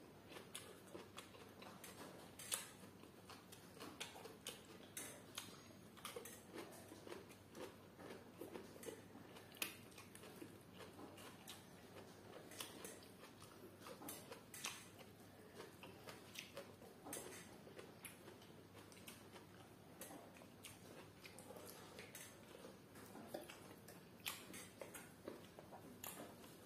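Faint chewing and mouth smacking of people eating grilled fish and rice by hand: many scattered soft wet clicks, a few sharper ones.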